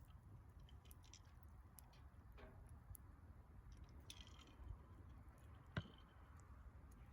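Wood fire crackling faintly with scattered small snaps, and one sharper pop near the end.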